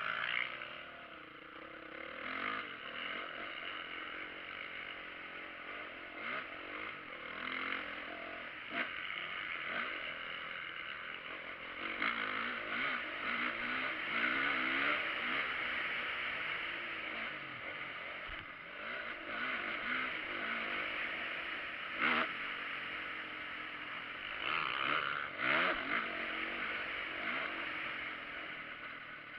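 Motocross motorcycle engines revving, their pitch rising and falling again and again as the bikes ride, with a few sharp knocks.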